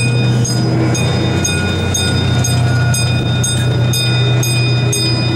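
Amusement-park ride train rolling along: a steady running hum with a light, regular click about twice a second.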